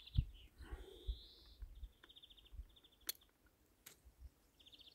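Faint birdsong in short repeated trills over a low wind rumble, with two sharp clicks about three and four seconds in.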